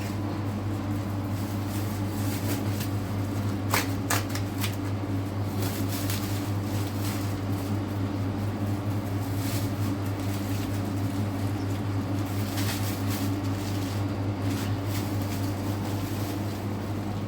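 A steady low mechanical hum, like an appliance motor running, with a couple of sharp clicks about four seconds in and light rustling and handling noises scattered throughout.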